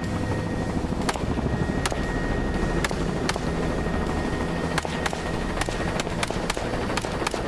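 About a dozen AR-style rifle shots fired from a helicopter, at irregular intervals, coming faster about five seconds in. The helicopter's rotor and engine drone steadily underneath.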